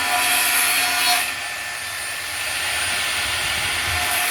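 Electric power tool motor spinning up, running steadily with a high whine, then spinning down near the end.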